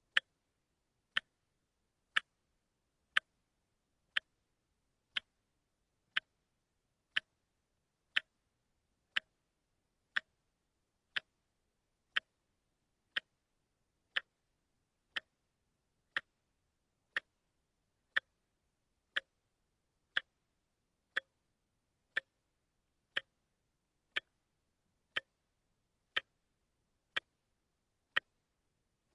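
A wristwatch ticking steadily, one sharp tick a second: the once-a-second step of a quartz movement's seconds hand.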